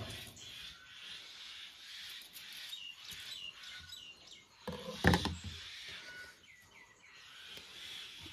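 Small birds chirping in short, scattered calls over a steady outdoor hiss, with one brief, much louder sound about five seconds in.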